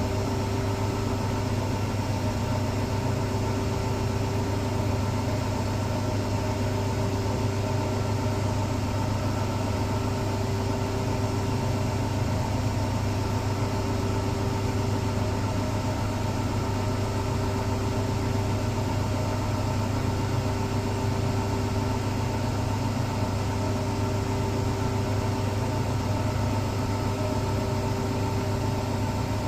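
Electrolux Professional WN6-20 commercial washing machine in its final extraction spin, the drum turning at high speed with a steady hum.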